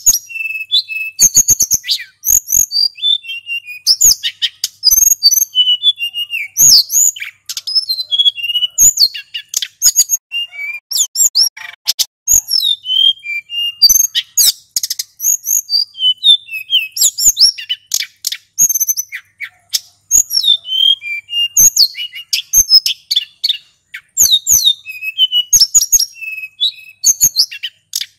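Male sulingan gunung singing a fast, continuous run of short, varied high chirps and whistled notes with quick pitch sweeps.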